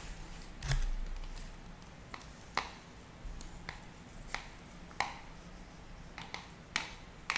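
Scattered light clicks and taps of hands and a utensil handling food and containers while a sandwich is being made, about a dozen, irregularly spaced, a few with a short ringing tail.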